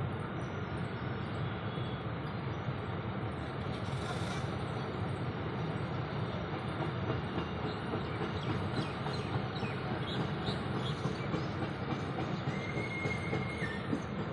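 Train running steadily along the rails, its sound mostly low-pitched, with a brief faint high tone near the end.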